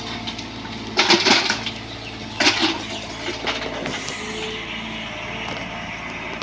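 Bobcat 322 mini excavator's diesel engine running steadily, with two loud scraping crunches about a second and two and a half seconds in as the machine works the ground, and a few lighter ones after.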